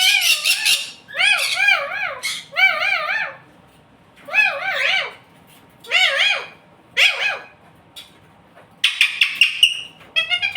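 Pet parrot calling in a run of short, high, warbling calls, each rising and falling in pitch, about seven in all with short pauses between, ending in a harsher squawk near the end.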